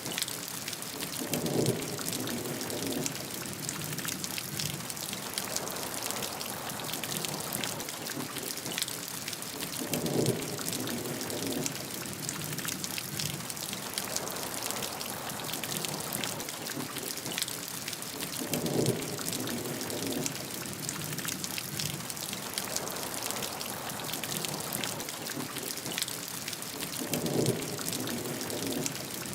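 Steady rain falling, a continuous hiss thick with the patter of individual drops. A short low burst of sound comes back four times, about every eight and a half seconds, like a repeating rumble in the track.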